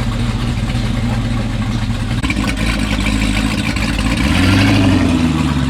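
Twin-turbo Dodge Scat Pack's V8 engine idling, then revved once about four seconds in, its note rising and dropping back near the end.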